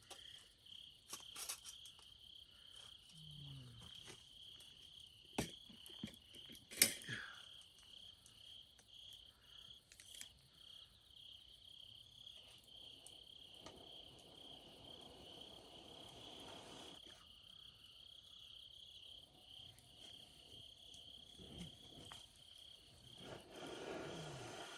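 Crickets chirping steadily in a high, evenly pulsing trill, with a few sharp pops in the first ten seconds.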